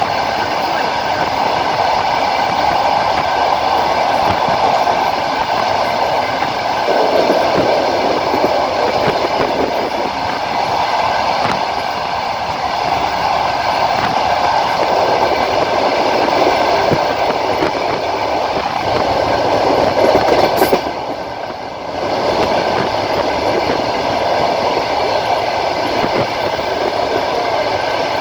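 Train wheels rolling on the rails at speed, heard from a window of the moving train: a steady rumble with the clickety-clack of the wheels over rail joints. The sound dips briefly about two-thirds of the way through.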